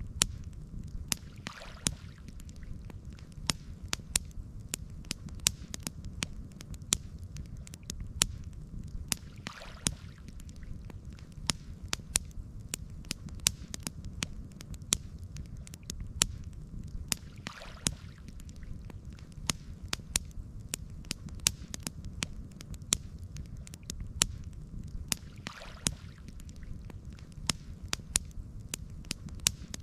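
Campfire crackling, with frequent sharp pops over a steady low rumble, and a soft swish that comes back about every eight seconds.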